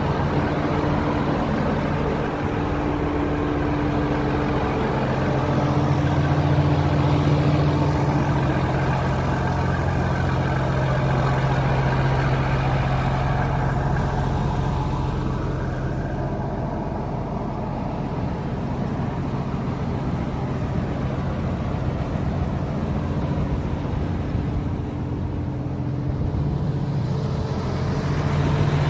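John Deere 7810 tractor's six-cylinder diesel engine running steadily. Its sound grows duller and thinner about halfway through and brightens again near the end.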